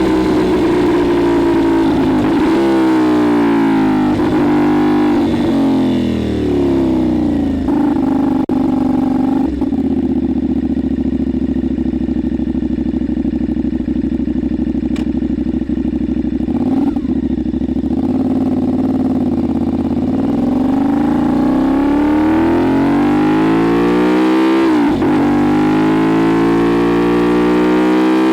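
Motorcycle engine of a 2025 CFMoto 450SS, a parallel twin, heard through a Leo-Vince LV-10 slip-on exhaust. The revs fall away over the first few seconds with a couple of brief shift breaks, then hold low and steady for about ten seconds. The bike then accelerates hard, with revs climbing, a quick upshift a few seconds before the end, and revs climbing again.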